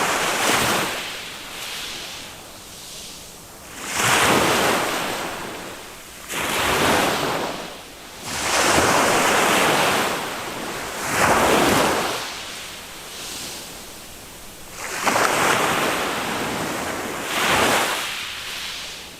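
Small waves of a calm Mediterranean sea breaking and washing up on a sandy beach, a surge about every two to four seconds.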